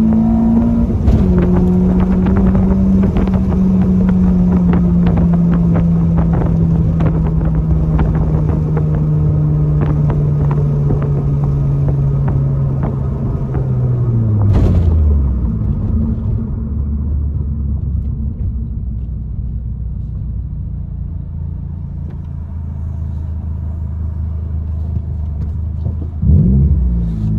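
In-cabin sound of a 9th-gen Honda Civic Si's 2.4-litre four-cylinder engine. After a gear change about a second in, its note sinks slowly as the car coasts with clicks and rattles, then drops to idle about halfway through and idles steadily. There is a quick rev near the end.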